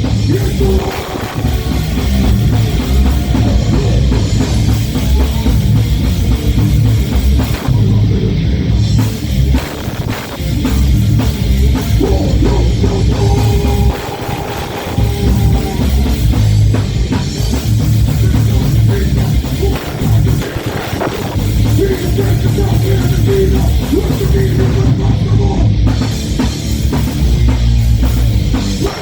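Live heavy metal band playing: distorted electric guitars, bass and pounding drum kit, with a short break about halfway through.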